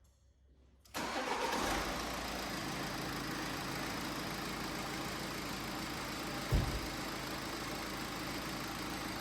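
BMW X5 (F15) engine starting about a second in and settling into a steady idle. A single low thud comes near the end.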